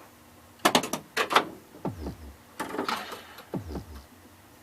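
Williams Gorgar pinball machine in play: a quick run of sharp mechanical clacks in the first second and a half, then three electronic tones that each sweep down into the bass, about a second apart.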